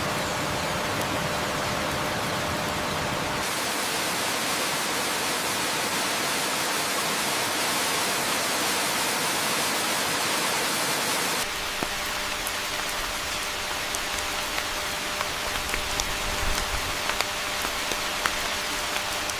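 Steady rain falling, an even hiss whose character switches abruptly twice, about three and a half seconds in and again near the middle. In the last part single drops tick clearly over the hiss.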